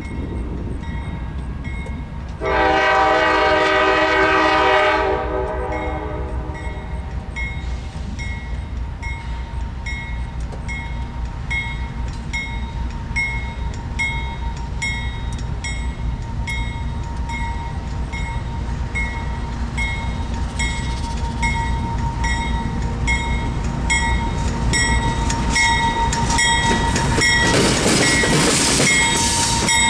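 A CSX train's locomotive horn sounds one loud chord blast of about two and a half seconds, over the steady rumble of the diesel locomotive. Then a ring repeats at a steady pace while wheels click over rail joints, the clicking coming faster and louder near the end as the train passes close.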